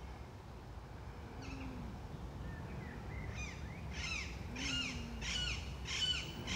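Birds calling in woodland: a run of about five short calls that arch down in pitch, one every half second or so from about halfway in, with a faint low call twice, over quiet outdoor background.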